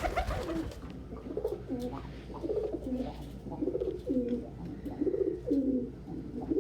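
Pet pigeons cooing over and over, one low, rolling coo after another with little break between them.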